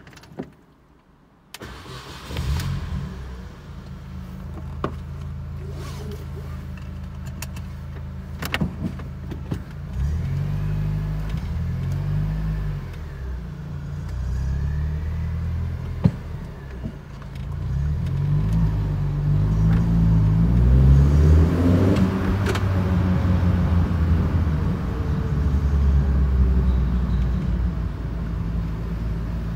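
Mini One R50's four-cylinder engine starting about one and a half seconds in, then running and revving up and down in first gear as the car pulls away. A few sharp exhaust pops crack over the engine note.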